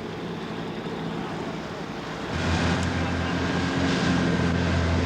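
A boat's engine running with a steady low hum over wind and sea noise. It grows louder about two seconds in.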